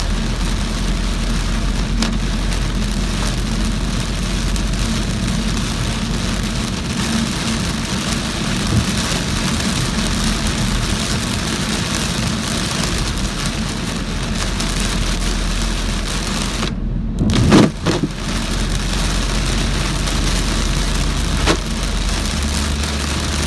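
Heavy rain falling on a moving car, with tyre hiss and a low steady engine hum beneath. About 17 seconds in, the rain noise cuts out for a moment, then comes back with a brief low whoosh.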